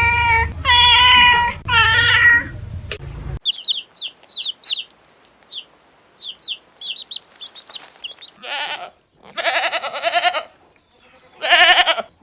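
A run of farm-animal calls, one after another. It opens with three long pitched cries, then a few seconds of short, high chirps, often in pairs. It ends with several rough, bleating calls.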